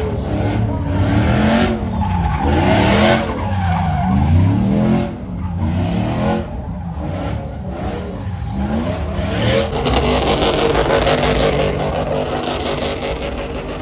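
Truck engine revving up and down several times, then held at high revs from about ten seconds in, with tyres spinning and squealing as in a burnout.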